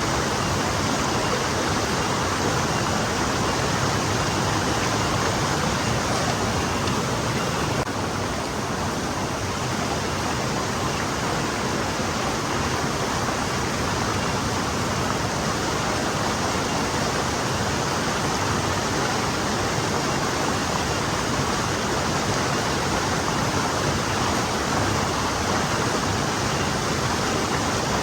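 Forest stream flowing steadily: a continuous rush of running water.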